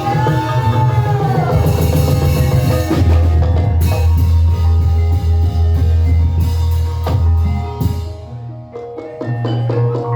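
Ebeg accompaniment music: drums over pitched gamelan-style tones with heavy bass. A sliding tone rises and falls in the first second and a half, and the music thins out about 8 seconds in.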